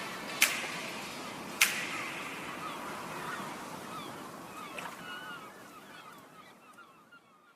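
Birds calling in many short, quick notes, with two sharp clicks in the first two seconds; the whole sound fades out steadily to silence.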